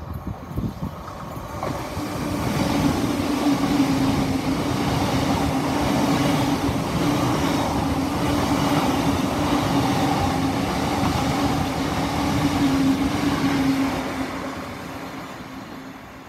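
LNER Azuma high-speed train passing close by. A rush of wheels and air with a steady hum builds over the first few seconds, holds for about ten seconds, then fades near the end.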